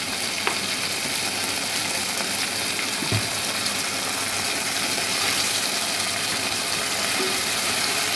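Onions and capsicum sizzling steadily in hot oil in a pan over high heat, with one brief low thump about three seconds in.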